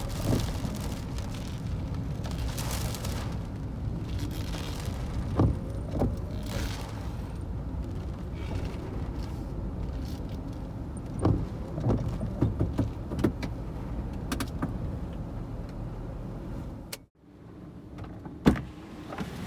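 Strong typhoon wind rumbling on the microphone, with scattered short thumps and gusts; it cuts out briefly near the end and resumes.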